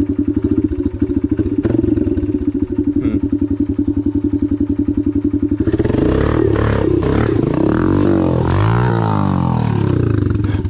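Dirt bike engine running at a steady idle, then revved hard about six seconds in, its pitch climbing and falling several times before settling near the end.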